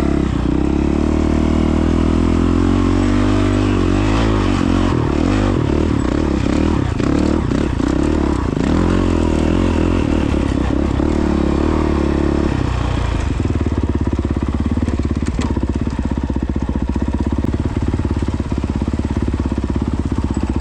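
Single-cylinder four-stroke engine of a 2022 Honda CRF450X dirt bike running steadily at low speed, its note shifting slightly about twelve seconds in.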